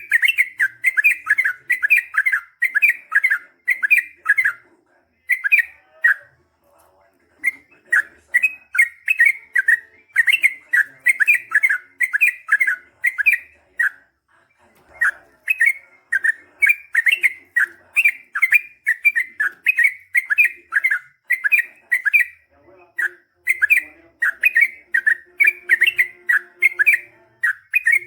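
Yellow-vented bulbul (trucukan) singing: a long run of short, loud, bubbling notes, about two a second, broken by a few brief pauses.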